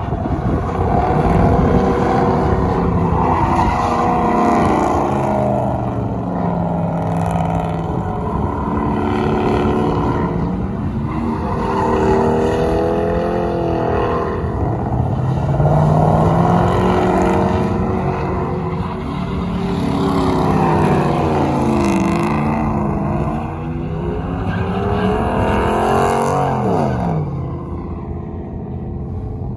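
A truck engine revving up and down again and again in long swells, falling away near the end.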